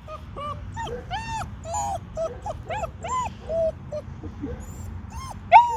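German Shepherd puppy whimpering: a rapid string of short, high whines, one after another, with a louder one near the end.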